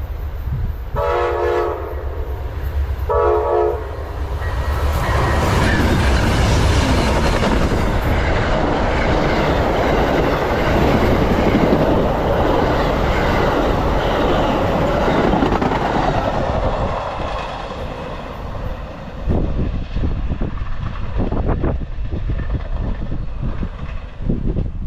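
An Amtrak passenger train's horn gives two short blasts, then the train passes at about 70 mph with a loud rush and clatter of wheels on rails. The noise fades over the last few seconds, leaving gusty wind noise on the microphone.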